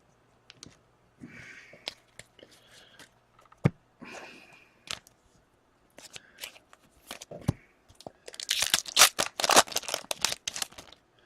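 A hockey card pack wrapper being torn open and crinkled, with small clicks and scrapes of cards being handled. The loudest part is a dense rip and crinkle of about two seconds near the end.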